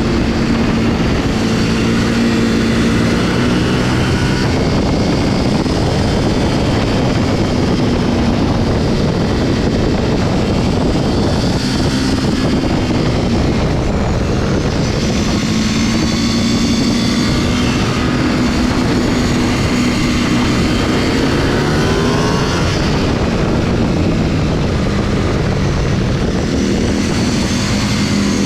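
Motorcycle engine running at road speed under heavy wind rush, its pitch rising and falling with the throttle, with a climb in revs about twenty seconds in.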